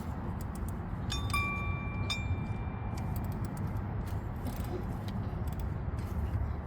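Metal hand tools, a socket and wrench, clinking against metal in the engine bay: a few sharp clicks, then metallic strikes about a second in that leave a clear ringing tone fading over about two seconds, over a steady low rumble.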